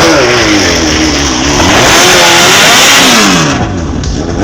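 Sport-motorcycle engines revving hard at a drag strip, the pitch climbing and dropping several times. There is a loud stretch in the middle, and the engine note falls away near the end.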